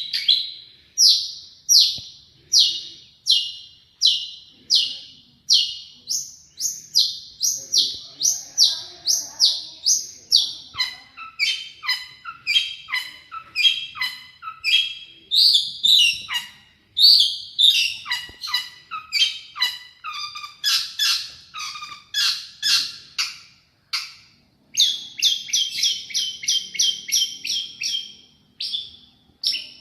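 Long-tailed shrike singing without pause: a string of sharp, downslurred notes about two a second, breaking about a third of the way in into quicker, varied notes at several pitches. After a brief pause near the end comes a fast, even run of notes.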